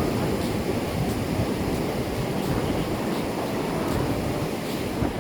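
Ocean surf on a beach: a steady rush of waves with low wind buffeting on the microphone.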